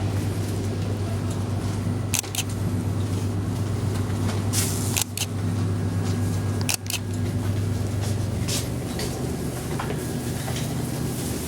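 A motor vehicle's engine running with a steady low hum, which eases about eight seconds in, with a few sharp clicks or knocks along the way.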